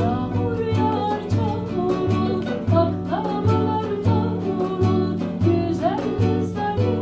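Instrumental passage of an acoustic Turkish folk song: plucked guitar and mandolin over a steady bass line, in an even rhythm. A melody line slides up in pitch twice.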